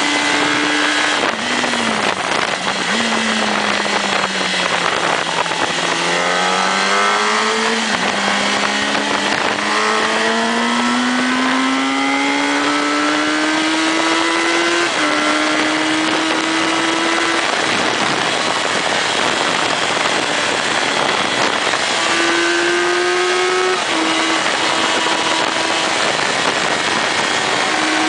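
Motorcycle engine under way with a heavy rush of wind noise. The engine note sinks, then climbs steadily, and drops back once about halfway through, as at a gear change. It rises again near the end.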